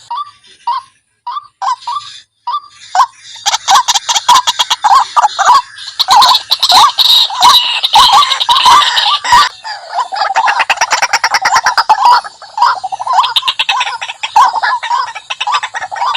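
White-breasted waterhen calling: harsh 'wak' notes repeated fast, scattered at first, then from about three seconds in a loud, continuous run of calls with a short lull near the middle. It is a lure call, used to draw waterhens in.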